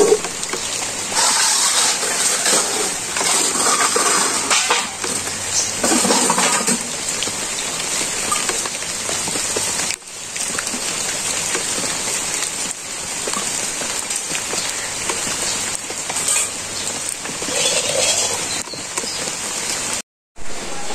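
Steady rain falling, with occasional scraping and clinks of steel dishes being scrubbed by hand.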